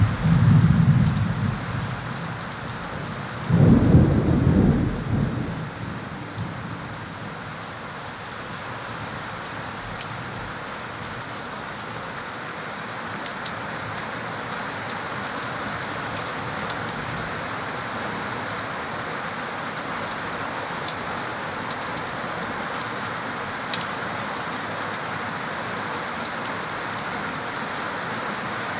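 Heavy rain falling steadily, with two rolls of thunder rumbling in the first few seconds, the second louder, before the rain continues alone.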